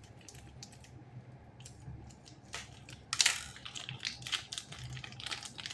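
Hands working a doll free of its plastic packaging: scattered clicks and crinkling rustles, the loudest about three seconds in.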